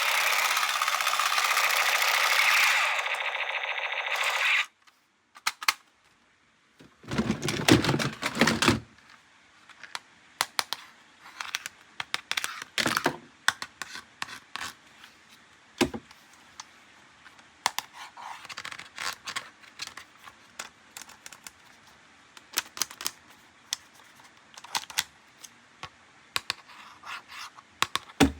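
A loud electronic toy noise cuts off sharply about four and a half seconds in. After a short pause comes a louder rustle, then many light clicks, taps and knocks from plastic toys and packaging being handled.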